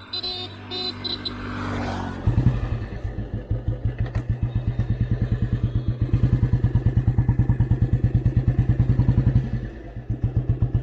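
Royal Enfield Bullet 350's single-cylinder four-stroke engine thumping steadily while riding, with its pulses coming in strongly about two seconds in and easing briefly near the end before picking up again. Over the first two seconds there is a steadier drone with a few short high beeps.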